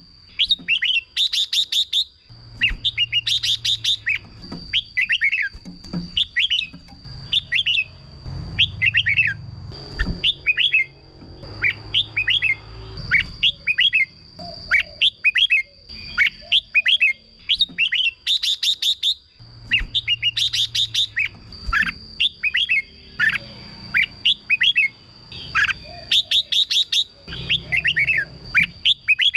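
Red-whiskered bulbuls singing: short, bright chirping phrases repeated every second or two, with a steady high tone running underneath.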